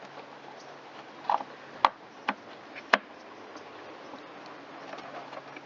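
A few sharp clicks and light taps as the throttle cable assembly of an Echo PB-770H backpack blower is worked back into its plastic housing, over a faint steady hum.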